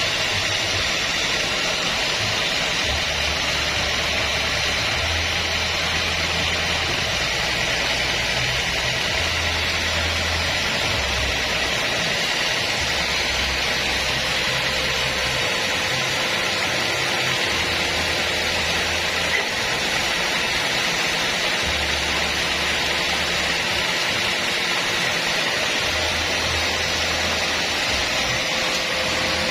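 Band sawmill running with a steady, dense hiss, sawing acacia wood, with a low rumble that comes and goes.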